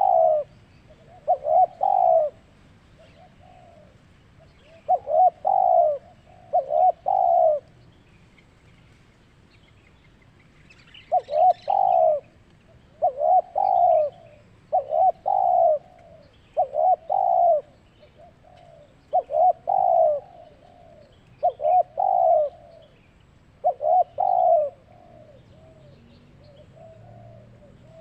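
Zebra dove (perkutut) cooing: short phrases of a few quick rolling notes, repeated every second or two, with a pause of a few seconds about a third of the way in.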